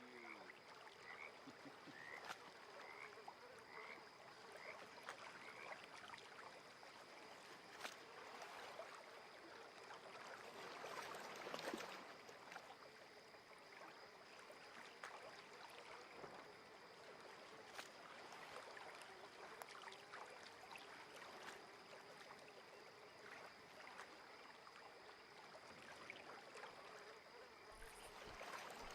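Faint, quiet lakeside ambience: soft water lapping at the shore, swelling briefly about eleven seconds in. In the first six seconds a small animal gives a row of short rising chirps, about one every three-quarters of a second, over a steady thin high whine.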